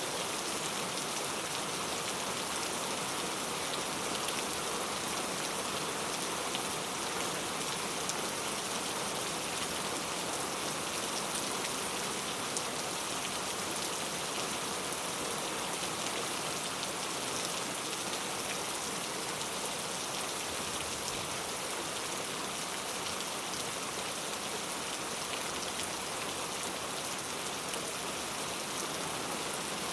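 Heavy rain falling steadily on hard street surfaces: a dense, even hiss of countless drops.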